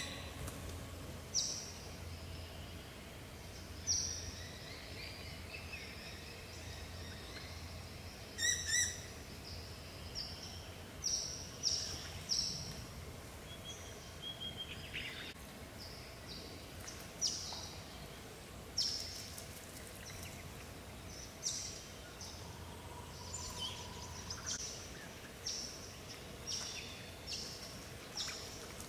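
Wild birds calling: short, high calls repeated irregularly every second or two over a faint steady background hiss.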